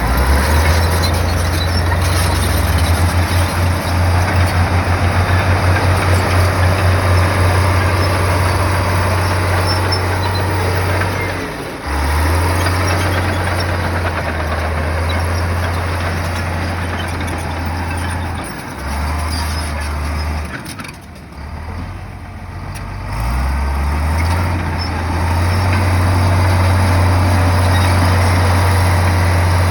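Komatsu bulldozer's diesel engine working, its low note rising and falling with the throttle and pulsing in a fast throb a few seconds in. The engine drops off briefly about two-thirds through, then picks up again, under a steady rough mechanical noise.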